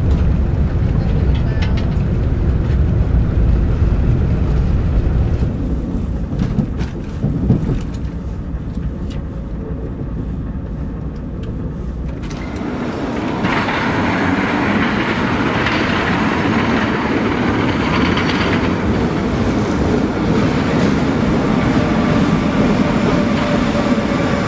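Low rumble of a KTX high-speed train running, heard inside the passenger car, with a few clicks. A little past halfway the sound cuts abruptly to a brighter, hissing rail noise with steady whining tones from a train.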